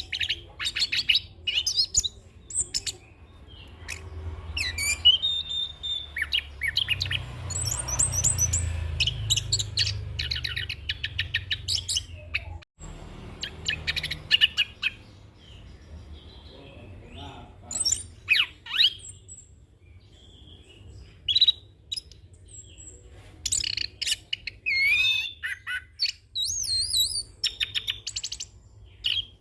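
Chestnut-capped thrush (anis kembang) singing a fast, continuous, varied song of chirps, rapid trills and whistled glides, rolling through a repertoire of mimicked phrases, over a steady low hum.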